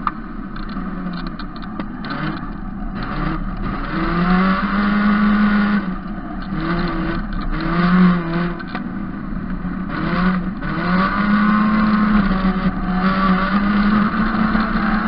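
Opel GSI-based prototype race car's four-cylinder engine heard onboard, its revs repeatedly climbing and dropping through throttle lifts and gear changes while cornering.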